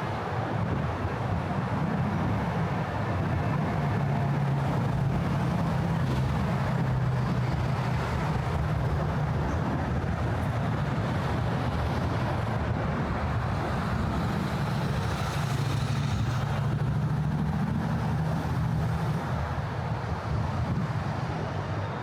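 Steady road traffic on the bridge roadway: cars and trucks passing with a low drone of engines and tyres that swells and eases as vehicles go by.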